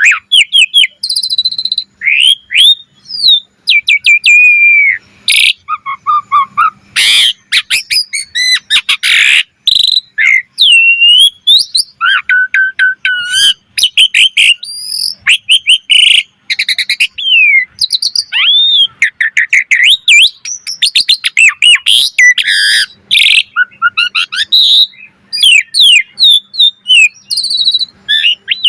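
Asian pied starling (jalak suren) singing loudly in full, varied song: quick phrases of whistles, rising and falling slurred notes, rapid trills and harsh rasping calls, with brief pauses between phrases.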